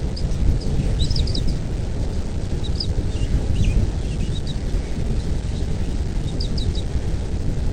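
Birds chirping in short, high clusters of quick notes, a few times, over a steady low rumble.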